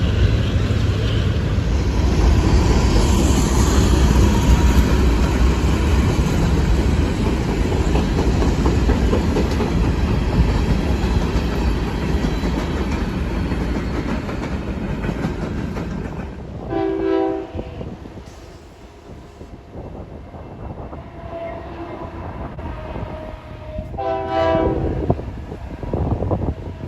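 A train passing close by, with wheels clicking over the rail joints, fading away after about fifteen seconds. Then come two blasts of a locomotive horn: a short one, and a longer one several seconds later.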